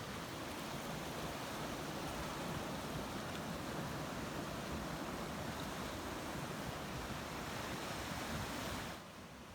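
Ocean waves washing in a steady surf, cutting off abruptly near the end.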